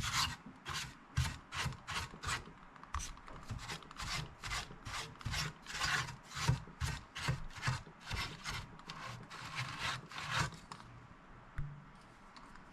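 Soft-bristled brush sweeping dust out of an old stereo receiver's chassis in quick, repeated back-and-forth strokes, about two or three a second, stopping about a second before the end.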